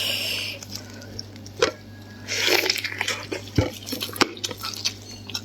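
Close-up eating sounds: wet clicks and smacks of chewing gelatinous, collagen-rich beef tendon. Two short breathy hisses, one at the start and one about two and a half seconds in, as air is drawn over scalding-hot food.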